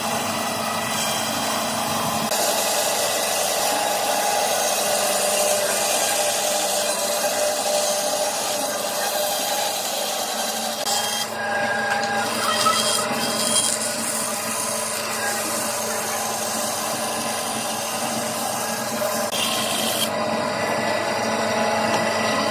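A power tool working solid wood, running steadily with a continuous rubbing, abrasive noise.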